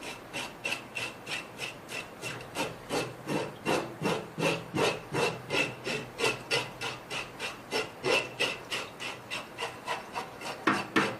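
Fish scaler scraping the scales off a flounder in quick repeated strokes, about three to four a second.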